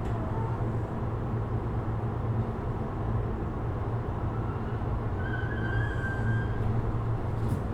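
Steady low hum and rumble inside a Sotetsu 12000 series electric train car, with a few faint short tones about five seconds in.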